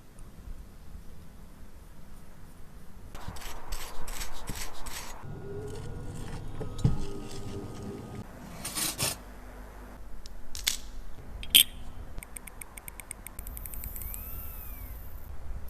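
Small metal tools working on a wristwatch: scattered clicks and short scraping bursts, then a quick, even run of clicks for the last few seconds.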